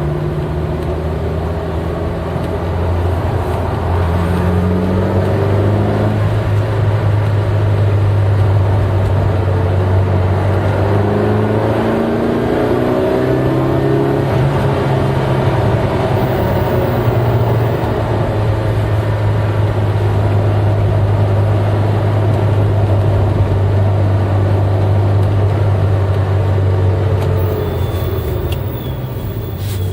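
V8 car engine running while driving, a steady low drone whose pitch shifts a few times, with short rises in the engine note about 4 seconds and 12 seconds in.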